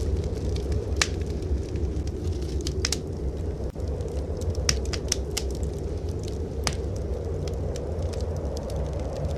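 Wood fire crackling in a fireplace, with irregular sharp pops, over a steady low rumble of blizzard wind.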